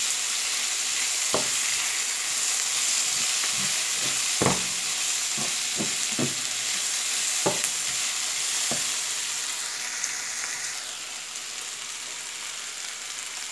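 Grated potato, sweet potato, onion and bacon sizzling in a frying pan with a steady hiss. A slotted spatula stirs and turns them, knocking against the pan now and then. The sizzle eases slightly near the end.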